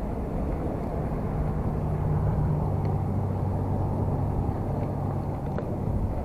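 Road traffic passing: a steady low rumble, with a vehicle's engine hum swelling in the middle and then fading.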